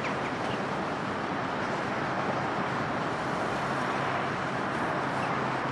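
Steady rumble of a departing train of carriages running away around a curve into the distance, an even noise with no clear beats.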